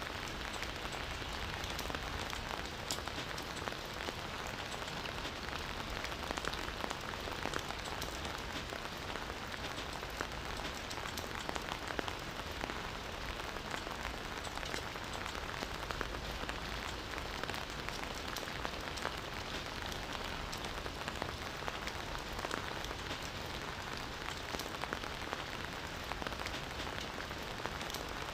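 Steady rain falling in a forest, an even hiss of rain with many individual drops ticking on leaves and surfaces.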